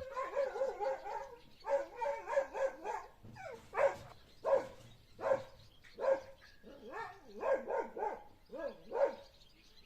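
A dog barking over and over in short, pitched barks, about one to two a second.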